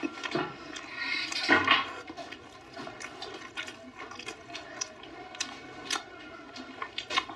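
Close-up wet chewing and lip smacking of a person eating braised pork belly and rice, with frequent sharp clicks and a louder rush of noise about a second in.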